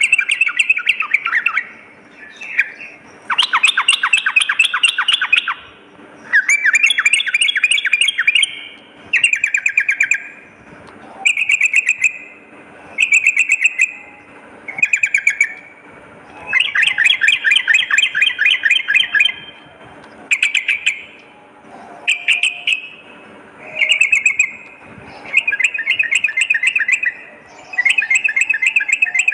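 Yellow-vented bulbul (trucukan) singing: loud, rapid bubbling chattering phrases, each a second or two long, repeated over and over with short pauses between them.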